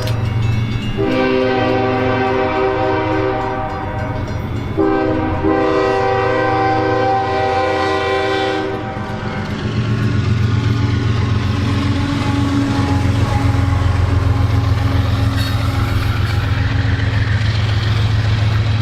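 Train horn blowing long blasts: one ending about a second in, then two more of about three to four seconds each. After the last blast ends, about nine seconds in, a loud steady low rumble of the train goes on.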